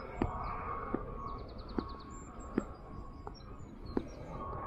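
Birds singing, with quick trills and high chirps, over steady outdoor background noise, and a few sharp taps roughly once a second.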